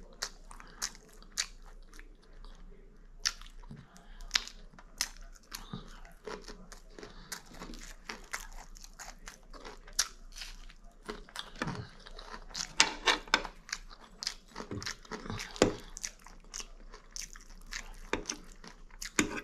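A person chewing and biting food close to the microphone, with many sharp crunches and clicks; the crunches come thicker from about twelve seconds in.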